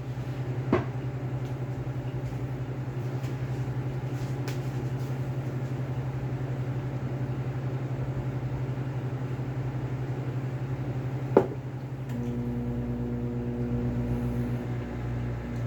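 Microwave oven running with a steady mains hum and a fast flutter while a covered container of water and pasta cooks inside. Two sharp knocks, about a second in and about eleven seconds in.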